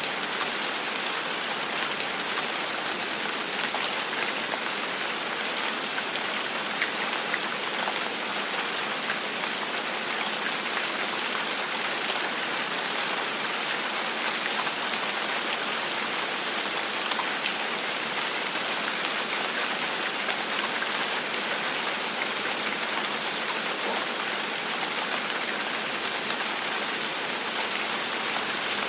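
Steady gentle rain falling on a surface, an even hiss with scattered individual drops ticking.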